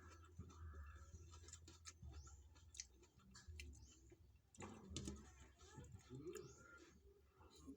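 Faint, scattered clicks and small clatters of someone eating a meal, over a low steady hum.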